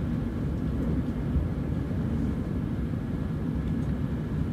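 Cabin noise inside a Class 168 HybridFLEX diesel-battery hybrid train running at about 58 mph: a steady low rumble from the running gear and traction, incredibly quiet for a train at that speed.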